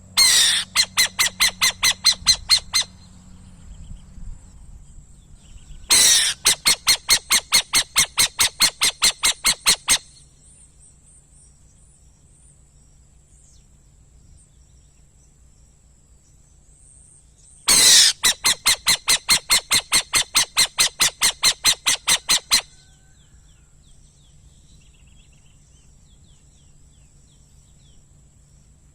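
A bird calling in three bouts of rapid, evenly repeated high notes, about five a second, each bout lasting a few seconds.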